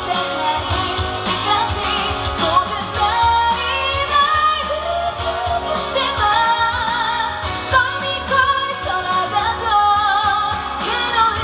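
Female vocalist singing an upbeat pop song live over a band backing track, her melody gliding and holding long notes above a steady beat.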